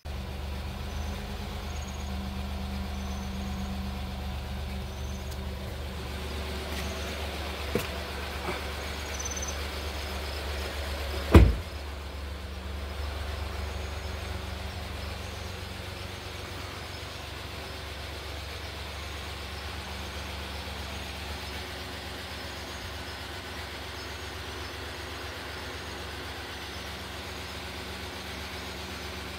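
Honda Accord V6 engine idling steadily while it burns off the carbon cleaner poured into its intake. A brief, loud sharp sound about eleven seconds in stands above the engine, and the engine sits slightly quieter after it.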